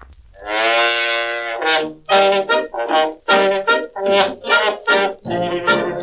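Brass instruments playing the introduction of a novelty song: one long held note, then a string of short, bouncy notes in a steady rhythm.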